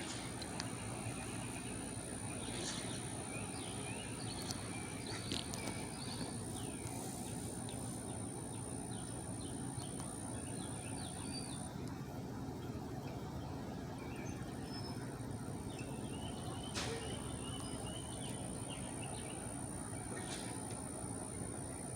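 Outdoor ambience: a steady low background rumble with small birds chirping in scattered short calls, mostly early and again in the second half. A constant thin high tone drops out for a couple of seconds midway.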